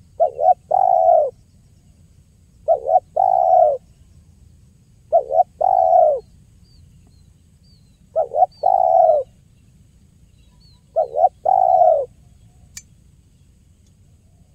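Spotted dove (tekukur) cooing: a phrase of two short notes and a longer held note, repeated five times about every three seconds. Faint high chirps of small birds sound in the background, with a single click near the end.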